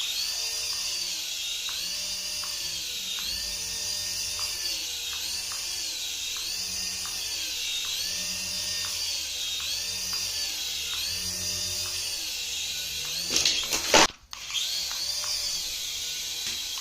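Battery-operated toy running: a high motor whir with an electronic sound-effect loop of warbling tones repeating about every 1.3 s. It cuts out briefly near the end, then starts again.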